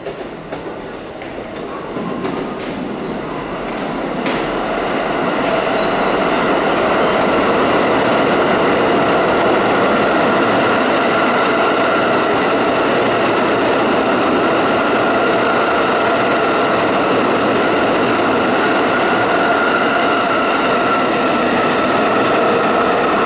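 JR East E195 series long rail transport train approaching and passing close by, its wheels rumbling over the track with a steady whine. A few sharp clicks come as it nears, and the sound swells over the first several seconds, then holds loud and steady as the rail-carrying flatcars roll past.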